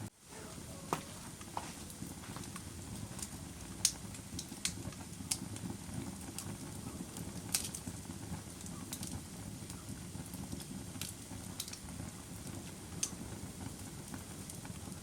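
Wood fire crackling: a steady low rumble of burning with sharp, irregular pops and snaps, the loudest about four seconds in. The sound cuts out for a moment right at the start.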